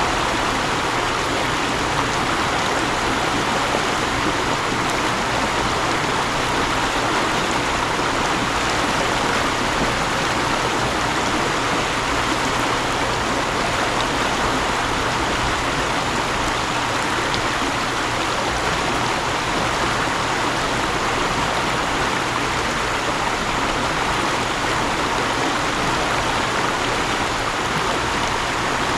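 Mountain stream, water rushing and splashing over rocks in a steady, unbroken flow.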